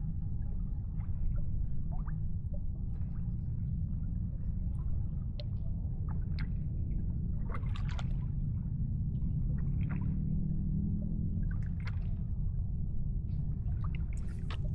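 Water lapping and dripping, with scattered small splashes and clicks over a steady low rumble.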